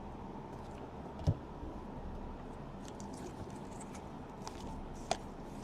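Faint handling of trading cards and packs: light clicks and rustles over a steady low hum, with a soft thump about a second in and a sharper click near the end.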